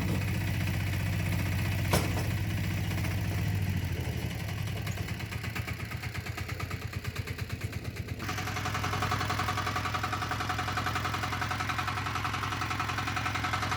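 Single-cylinder diesel engine of a walking tractor running. About four seconds in it drops to a slow chug with separate firing beats, and near eight seconds the sound turns brighter and steadier.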